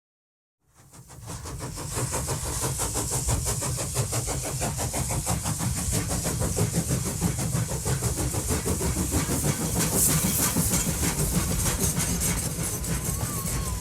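Small HO-scale model train locomotives running steadily around their track with a fast, busy clatter of wheels on rail and a low motor hum. The sound fades in about a second in.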